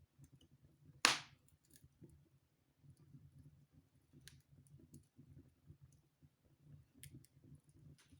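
Wood fire burning in a fireplace, crackling softly, with one sharp loud pop about a second in and a few fainter pops later.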